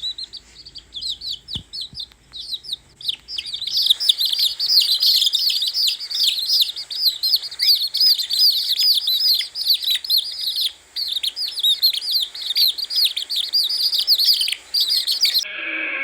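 Many small birds chirping and peeping at once, a rapid stream of short high chirps. It starts sparse, grows dense a few seconds in, and cuts off suddenly near the end.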